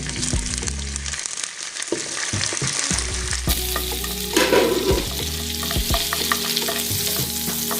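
Butter sizzling as it melts in a hot frying pan, with short clicks of a spatula stirring against the pan.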